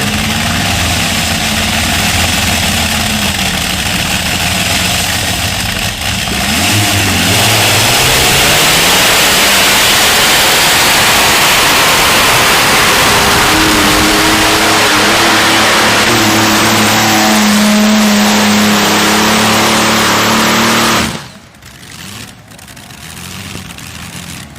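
Modified pulling tractor's engines running flat out during a pull, with the engine note rising about 7 seconds in. The engines cut off abruptly about 21 seconds in.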